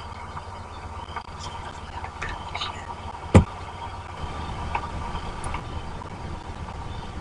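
Rain and wind on an outdoor wildlife-camera microphone: a steady low rumble with scattered faint ticks and chirps, and one sharp thump about three and a half seconds in.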